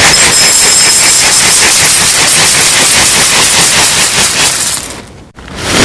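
Loud rushing of running water, which fades away about five seconds in and then starts again just after.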